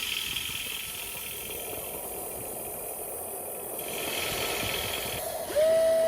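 Small electric motors and gearboxes of a toy RC excavator whirring with a rattle. About five and a half seconds in, a louder motor whine rises in pitch and then holds steady.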